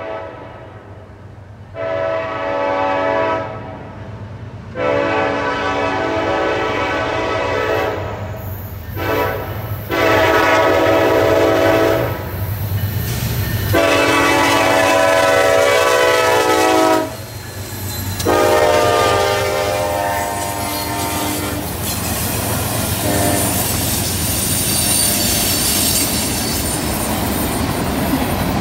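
Diesel freight locomotive's air horn sounding a series of about six blasts, mostly long ones of two to four seconds with short gaps between, over the rumble of the approaching engines. After the horn stops, the train rolls past with loud wheel-on-rail noise and a high hiss that builds toward the end, as the cars take the curve.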